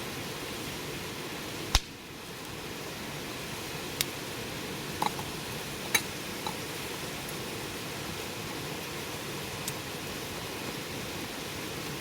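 Wood fire burning with a steady hiss, and sharp pops of crackling wood now and then, the loudest about two seconds in.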